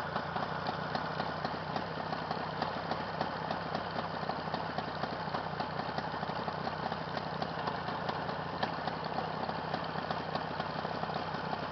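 Jawa 638's warmed-up 350 cc two-stroke twin idling steadily in gear with the clutch let out, driving the wheel round.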